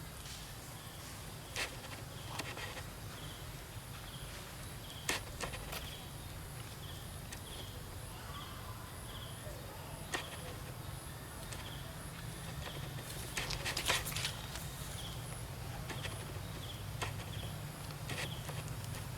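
Outdoor ambience with a steady, evenly repeating high chirping like an insect, and a few sharp clicks or knocks scattered through it. About two-thirds of the way in there is a brief louder rustle.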